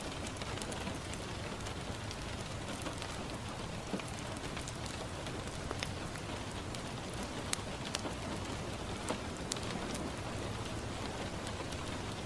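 Steady rain falling on a window, an even hiss, with a wood fire crackling in scattered sharp pops.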